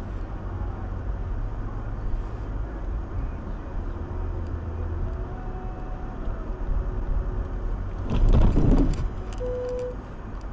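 Car road noise, a steady low rumble as heard from a dashcam. About eight seconds in it swells into a louder, rougher stretch for about a second, followed by a short single-tone beep.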